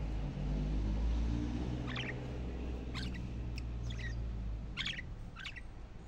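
Short bird chirps, about six of them spread through the second half, over a low rumble that swells in the first second and dies away near the end.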